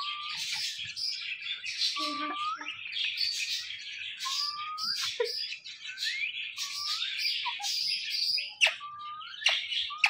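Birds chirping and twittering without a break, with a short rising whistle recurring about every two seconds.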